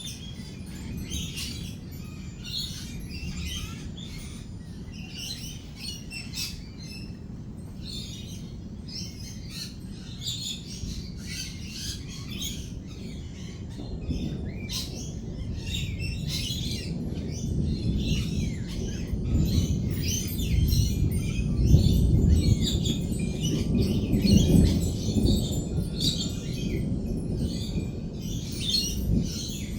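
Lorikeets chattering and chirping steadily while a low roll of thunder builds from about halfway through, is loudest about two-thirds in, then slowly fades.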